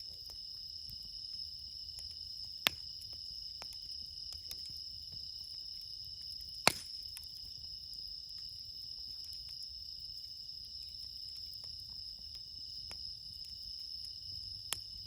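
A steady, high chorus of crickets, the autumn bell-cricket song, over a wood campfire crackling with small ticks. Two sharp, loud pops from the burning wood come about three and seven seconds in.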